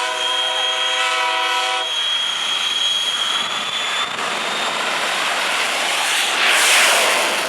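Jet engine running at a drag strip: a steady rushing roar with a high whine, swelling loudest near the end. For the first two seconds a chord of steady horn-like tones sounds over it, then cuts off.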